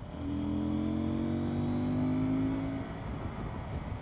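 CF Moto 800MT Explore's parallel-twin engine accelerating, its pitch rising steadily for nearly three seconds before the engine note falls away, over road and wind rumble.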